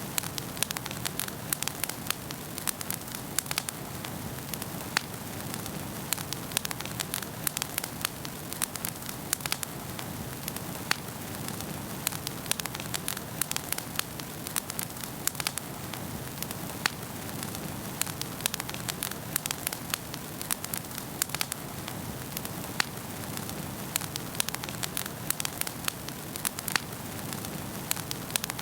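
Wood fire burning in a fireplace, crackling and popping with many sharp irregular snaps over a steady low rushing of flame.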